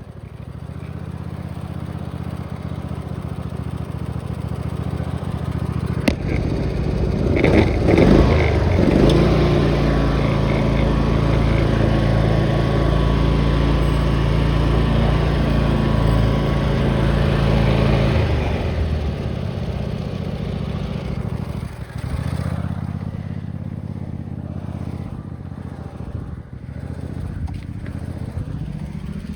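Tractor engine being run hard: it builds gradually, is opened up to full throttle about a quarter of the way in and held there, loud and steady, for about ten seconds, then drops back to a lower, steady speed.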